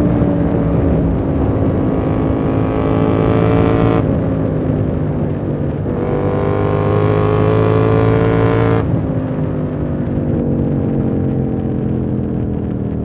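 KTM 890 Duke R's parallel-twin engine pulling on the throttle: the note drops abruptly about four seconds in, then climbs steadily as the bike accelerates. After about nine seconds the throttle shuts and the engine winds down on overrun.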